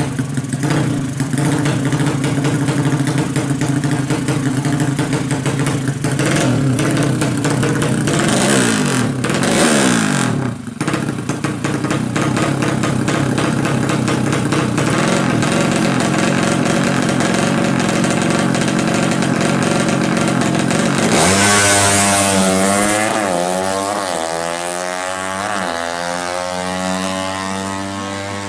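Yamaha Jupiter Z motorcycle engine, bored out to 200cc for racing, running at a fast steady idle. It is revved up and back down about a third of the way in. Later the note drops suddenly and the throttle is blipped several times.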